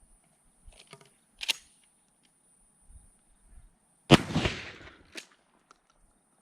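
A single 12-gauge shotgun shot with a 1 oz rifled slug about four seconds in, its boom trailing off over nearly a second. A few sharp clicks come before it and one right after.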